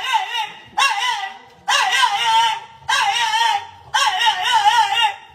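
A dog giving a run of high-pitched, wavering whine-howls, about six separate calls with short breaks between them.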